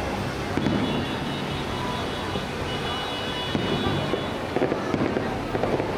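Distant 3-inch aerial firework shells popping and crackling over a steady outdoor rumble, with a few sharper bursts in the second half.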